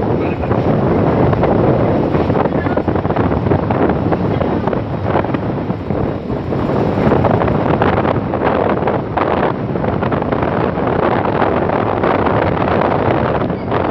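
Running train with a steady rush of wind buffeting the microphone, its level fluttering unevenly throughout.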